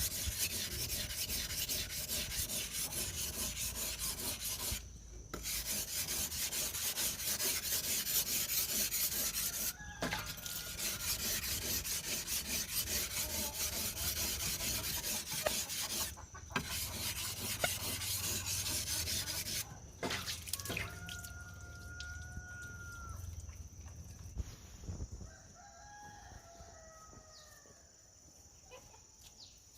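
Continuous rapid rubbing or scraping with a few short pauses, stopping about twenty seconds in. A rooster then crows twice over a high, steady insect drone.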